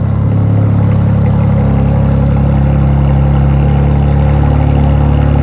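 2020 BMW X3 M's twin-turbo inline-six idling steadily through a full Eisenmann stainless cat-back exhaust with high-flow cats and a single muffler, giving a low, even exhaust note.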